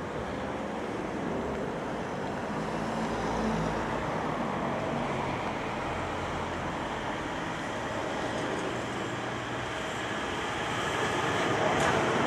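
Electric multiple unit train approaching round a curve and running past close by. Its steady rumble grows louder near the end, where a sharp click of the wheels over a rail joint is heard.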